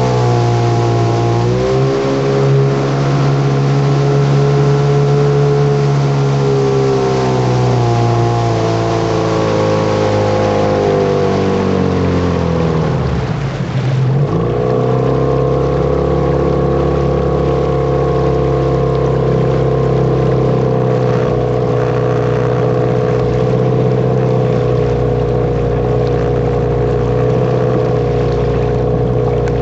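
Engine of a ClarkCraft Twin Escape kit-built motorboat running under way. Its pitch falls slowly for several seconds to a low point about halfway through as the boat slows, then climbs back and holds steady.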